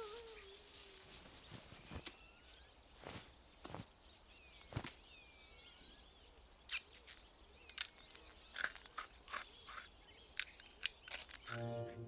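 Scattered sharp clicks and ticks, sparse at first and coming thicker and louder from about six and a half seconds in, with faint chirps in the background.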